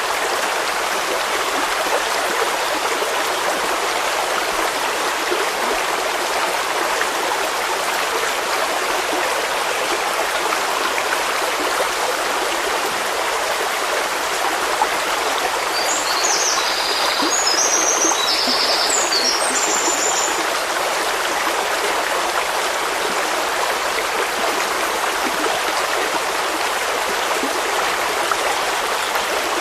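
A stream running steadily, with a bird chirping in a short burst of high calls a little past halfway through.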